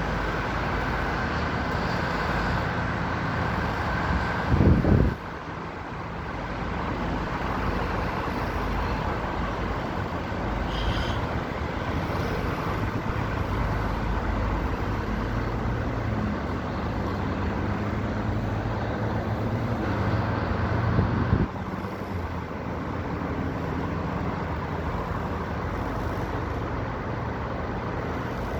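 Steady mechanical running noise, like a vehicle in motion, with two short loud rumbles, one about five seconds in and one about twenty-one seconds in.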